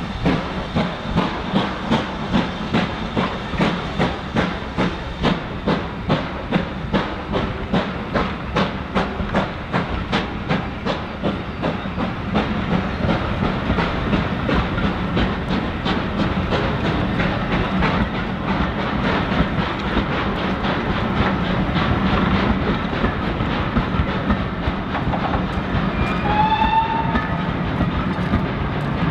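Passenger coaches of a steam-hauled train rolling past on jointed track: a rhythmic clatter of wheels, about one to two beats a second, that smooths into a steady rumble. A brief high squeal sounds near the end.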